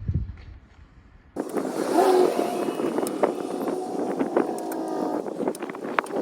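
A power tool working on steel starts abruptly about a second and a half in and keeps running, a steady whine with scraping and scattered sharp clicks.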